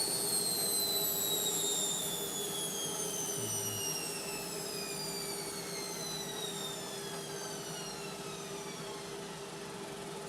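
Indesit washing machine's drum spinning down at the end of the final spin: the motor whine falls steadily in pitch and fades, over a steady low hum.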